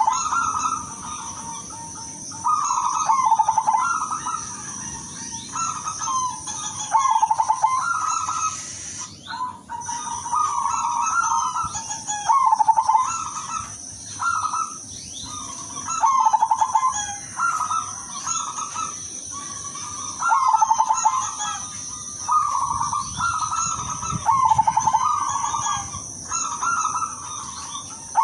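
Zebra dove (perkutut) cooing: short, rolling, stuttered phrases near 1 kHz, repeated every one to two seconds. A steady high-pitched whine runs underneath.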